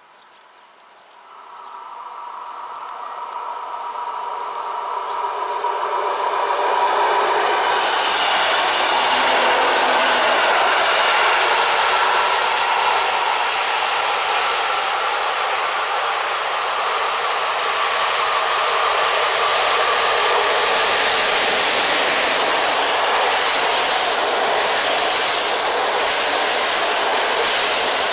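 EU07 electric locomotive hauling an Intercity passenger train approaching and passing at speed. A rising sound with several steady tones as it nears builds from about seven seconds in into a loud, steady rush of wheels and coaches on the track.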